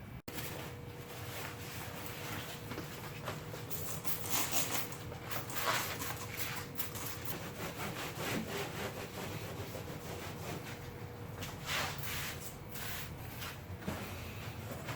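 Irregular rubbing and scuffing of something being handled or wiped, with a faint steady hum that stops about eleven seconds in.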